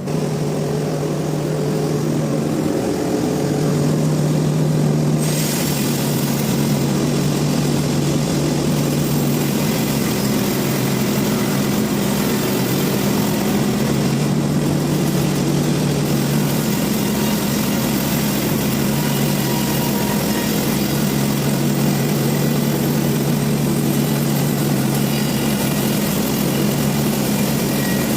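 Sawmill machinery running steadily, a low engine-like drone, with a broad hiss joining about five seconds in.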